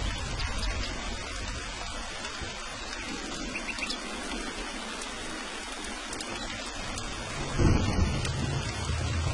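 Steady rain, with a low rumble of thunder that fades away, then swells again about three-quarters of the way through.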